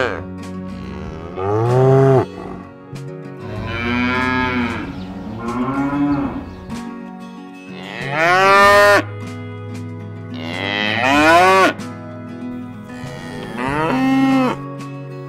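Cattle mooing: about six drawn-out moos, each rising and then falling in pitch, the two loudest in the second half.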